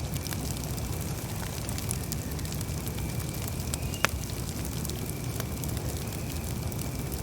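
Campfire burning: a steady low rumble of flames with scattered crackles and one sharp, loud pop about four seconds in.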